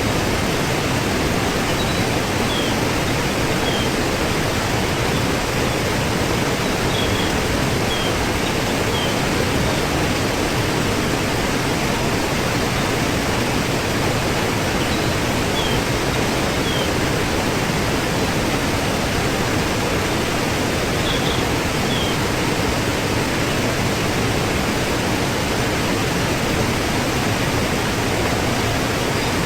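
Waterfall rushing in a steady, unbroken roar of falling water, with a few faint, brief high chirps now and then.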